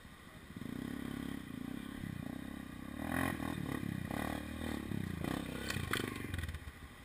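Enduro dirt bike engine revving up and down, with a few sharp knocks and clatters about three seconds in and again near the end; it falls away just before the end.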